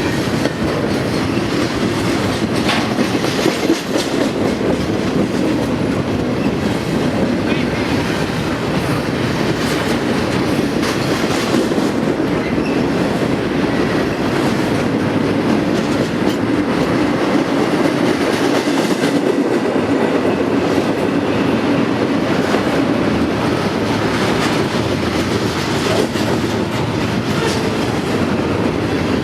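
Train rolling past at a steady pace: a continuous rumble of railcars with the wheels clicking over the rail joints.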